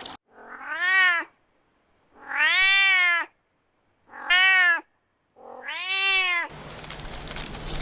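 Domestic cat meowing four times, each meow rising and then falling in pitch, with silent gaps between. Near the end a steady crackling hiss with a low hum starts.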